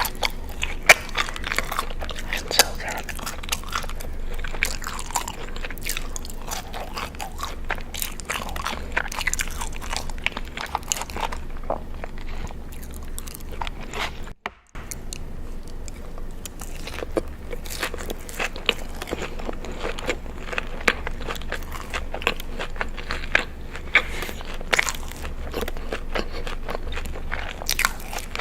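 Close-up crunchy eating: rapid sharp crunches of biting and chewing crisp food. There is a brief break about halfway through.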